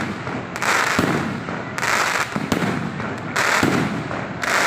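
Fireworks going off in quick succession: sharp bangs about once a second, each trailing a brief crackle.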